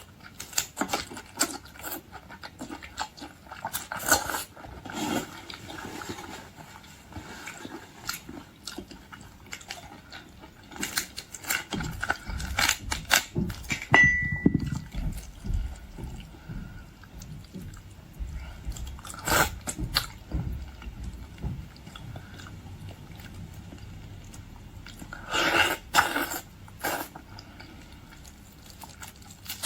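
Close-up eating of boiled seafood: wet chewing, slurping and the cracking of shells, heard as irregular sharp clicks and crunches.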